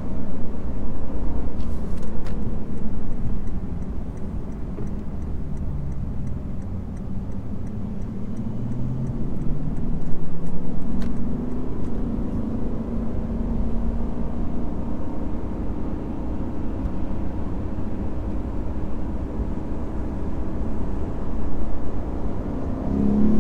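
The naturally aspirated 5.0-litre V8 of a Lexus IS500 F Sport Performance, heard from inside the car on an expressway under light throttle, over steady road rumble. The engine note climbs gently in the first half, settles to an even cruise, then begins to rise again near the end. Faint regular ticking runs for several seconds early on.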